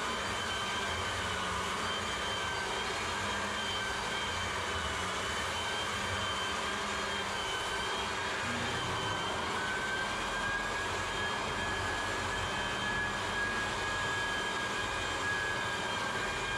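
Floor edger sander running steadily on 100-grit paper, a continuous motor whine over sanding noise; the whine steps up a little in pitch about ten seconds in.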